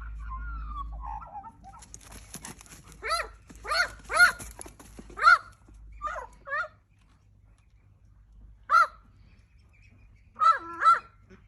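A young animal's short, high-pitched cries, each rising and falling in pitch, given in quick runs of several calls with pauses between.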